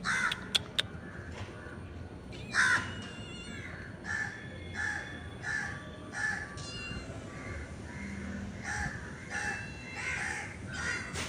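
Crows cawing: two louder caws in the first three seconds, then a steady run of short caws about every two-thirds of a second. A few sharp clicks sound about half a second in.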